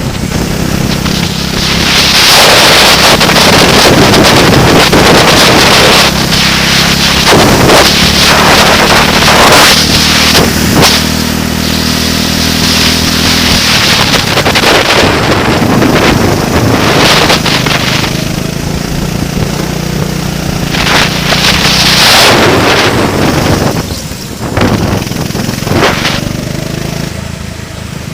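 A racing vehicle's engine running steadily under heavy wind buffeting on the microphone, with loud gusts coming and going every few seconds.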